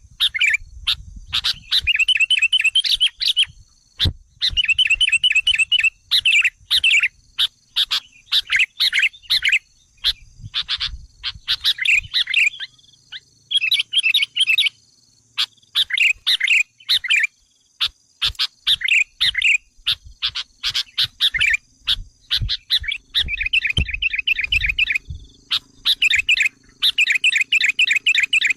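Sooty-headed bulbuls (kutilang) giving agitated, rapid chattering calls in repeated bursts of a second or two with short pauses. This is a lure call meant to excite wild bulbuls into coming close.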